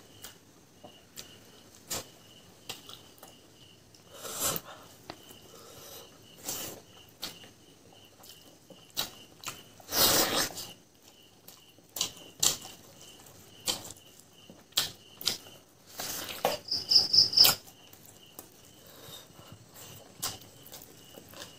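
Close-up eating sounds of fried pork leg eaten by hand: wet chewing, lip smacks and bites, many short clicks, with a louder bite about ten seconds in and a cluster of loud smacks near the end. A cricket chirps steadily underneath.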